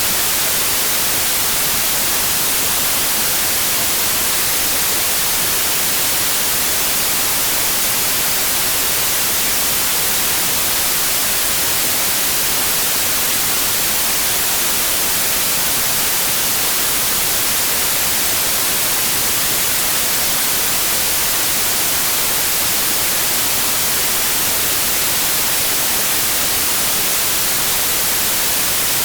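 Steady white noise: an even, unbroken hiss, strongest in the high range, with no change in level.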